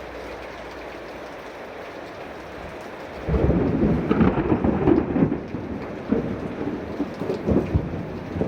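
Heavy rain falling steadily, then about three seconds in a sudden loud clap of thunder that rolls on as a crackling rumble.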